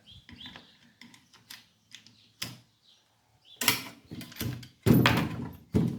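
Hand tools clicking and knocking on metal while the bolts of a small Briggs & Stratton engine's crankcase cover are undone, with a cluster of louder knocks and rattles about four to five seconds in.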